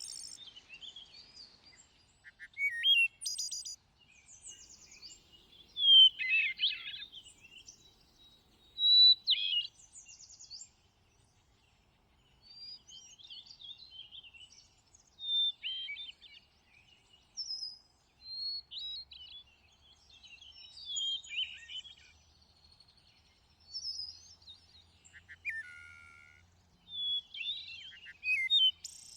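Songbird singing: a series of short, varied whistled phrases, each different from the last, with pauses of a second or two between them.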